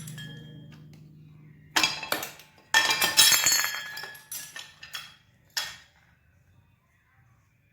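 A low engine hum dies away in the first second or so, then a run of sharp clinks and clatters of hard objects, loudest about three seconds in, thinning out to a last clink a little before the end.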